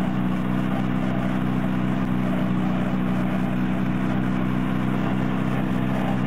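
A car engine running steadily at an even speed, with no revving or change in pitch.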